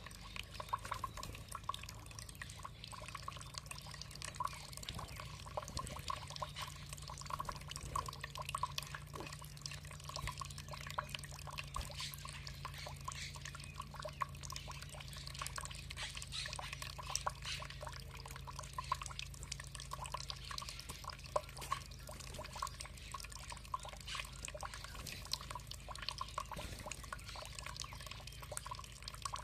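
Water trickling and dripping, a continuous patter of many small drips and splashes.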